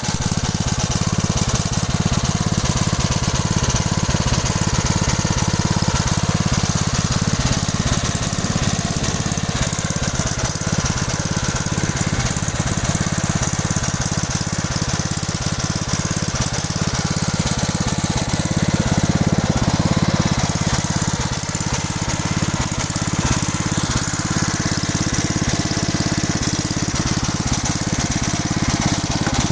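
Small Gutbrod tractor's engine running steadily, with a rapid, even firing beat.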